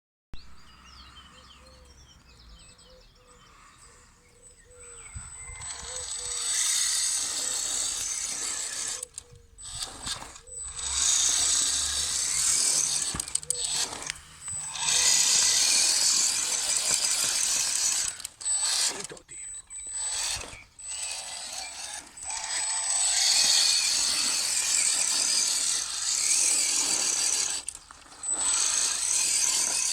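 Electric motor and gearbox of an RC scale GAZ-66 crawler truck whirring and rattling under load, with a steady high whine, in runs that stop and start again every few seconds. The first few seconds are quieter before the truck starts moving.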